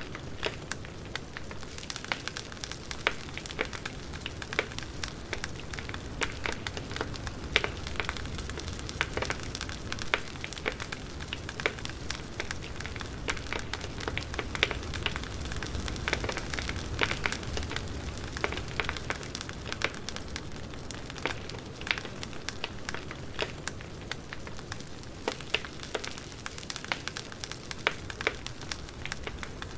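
Campfire burning, with many sharp, irregular crackles and pops, several a second, over a steady low hiss and rumble of the flames.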